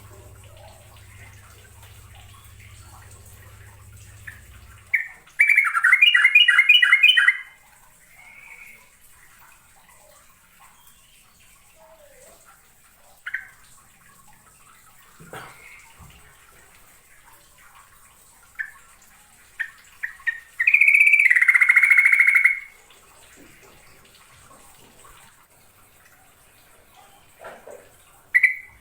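Yellow-vented bulbul (trucuk) singing loud, bubbly phrases of quick warbled notes, each about two seconds long. Two full phrases come well apart, a third starts at the very end, and scattered short chirps fall in between. A low hum runs under the first five seconds and stops.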